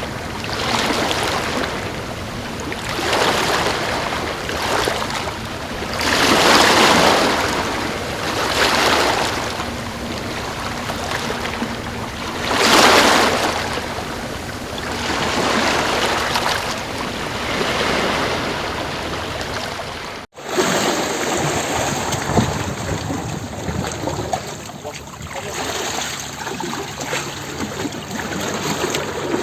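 Sea waves breaking and washing in, swelling and fading every few seconds. About two-thirds of the way through, an abrupt cut leads to a steadier, more even rush of surf.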